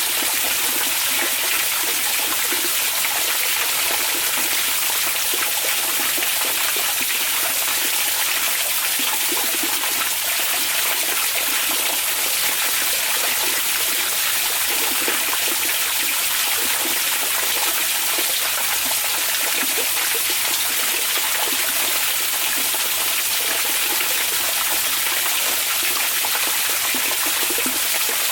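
Onsen hot-spring water running steadily: an even, unbroken rushing hiss with a churning, bubbling texture lower down.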